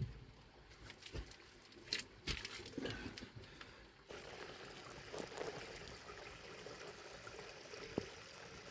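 Water trickling, with a few sharp clicks and knocks, one about 2 s in and a sharp one just before the end.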